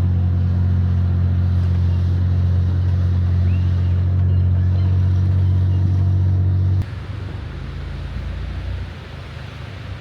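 Off-road SUV engine droning at a steady pitch while driving up a snowy trail. About seven seconds in it cuts abruptly to a quieter, rougher low rumble.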